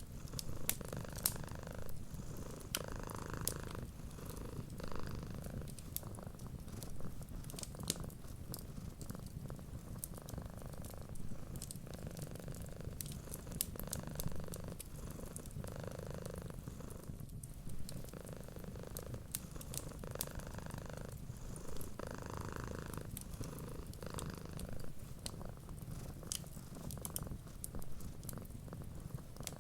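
Cat purring steadily, swelling and easing every second or two, over the sharp scattered pops and crackles of a wood fire.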